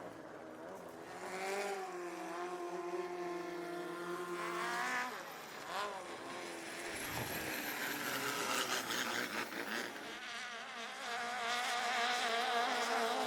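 Longtail racing boat engines revving hard, their pitch climbing in surges, with a high rising whine through the middle.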